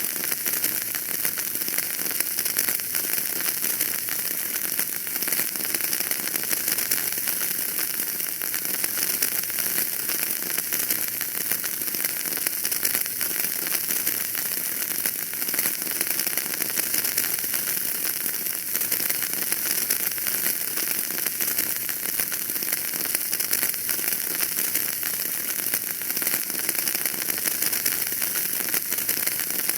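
Fire burning in a fireplace, crackling steadily with dense small crackles over a constant hiss.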